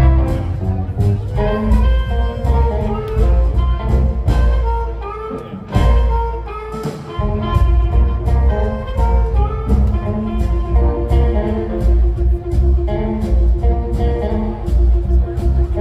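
Blues band playing amplified over a heavy bass line and a steady beat, with a brief thinning about six seconds in.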